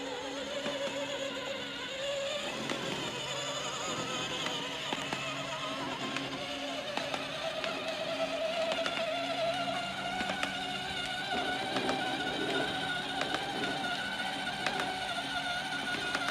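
Small electric drive motors of a ride-on toy car whining steadily, rising slowly in pitch, with background music.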